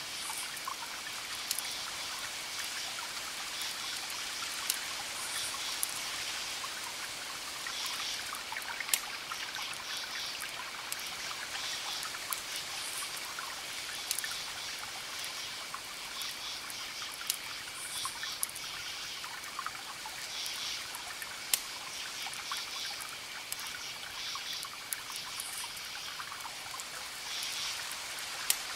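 Wood fire crackling steadily, with a sharp pop every few seconds, over a background of short high chirping calls that recur in clusters.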